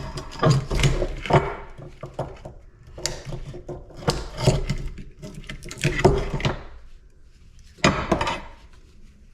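Scrap parts from an air-conditioner unit clanking and clattering as they are handled and tossed aside, in several separate bursts.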